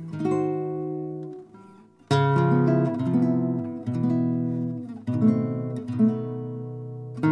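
Background music: acoustic guitar chords strummed and left to ring, with a brief pause about two seconds in before the next chord.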